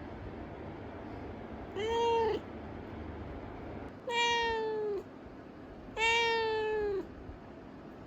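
A domestic cat meowing three times, a couple of seconds apart; the second and third calls are longer and slide slightly down in pitch.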